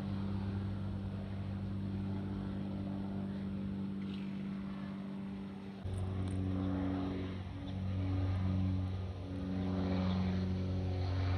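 Aircraft engine drone, a steady low hum that changes abruptly about six seconds in, after which its pitch wavers slightly.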